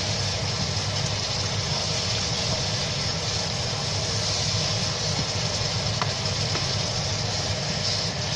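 Onion-and-spice masala sizzling steadily in oil in a nonstick wok while it is stirred and fried down (kosha) with a wooden spoon, over a steady low hum. A faint tick about six seconds in.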